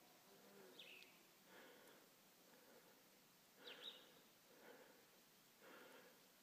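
Near silence with faint, short, downward bird chirps, three times, and soft breathy puffs in between.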